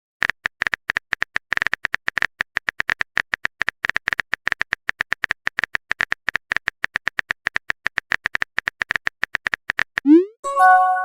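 Rapid phone-keyboard typing clicks, about eight to ten a second, as a message is typed out. Near the end comes a quick rising whoosh as it is sent, then a short incoming-message chime.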